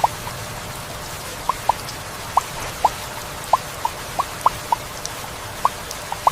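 Heavy rain falling steadily, with about a dozen sharp, irregular plinks of large drops over the hiss.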